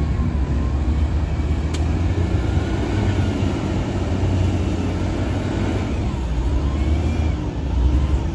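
Diesel engine of a Shantui DH17-C2 bulldozer running steadily with a deep rumble. Faint wavering high-pitched squeals come and go over it.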